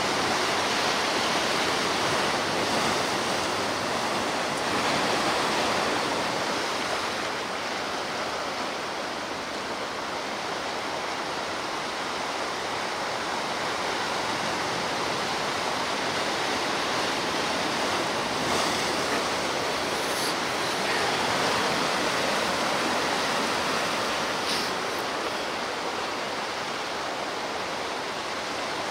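Ocean waves breaking and washing on the shore in a steady rush, rising and falling gently every few seconds.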